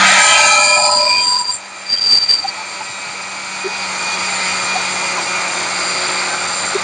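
Electric power tool working on a metal pole: a steady motor hum under loud metallic ringing for about the first second and a half, then the tool runs on more quietly, with a short louder burst about two seconds in.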